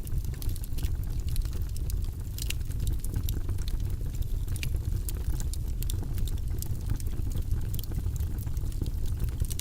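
Wood logs burning in a fireplace, crackling: frequent small, sharp pops at irregular moments over a steady low rumble.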